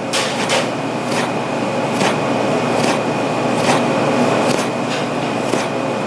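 Freshly sharpened kitchen knife cutting a tomato on a cutting board: short taps of the blade on the board about every half to one second, over a steady background hum.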